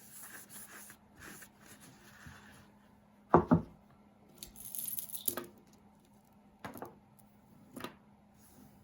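Two sharp knocks in quick succession, then a short paper-tearing sound as a paper napkin is fetched, then two lighter clicks.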